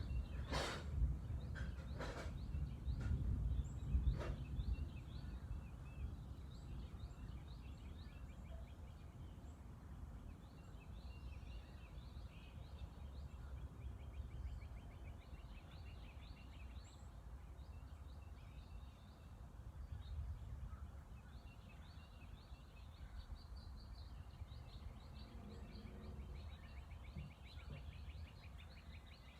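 Distant thunder rumbling low and fading over the first few seconds, with a few sharp cracks, while small birds chirp and give quick trills throughout.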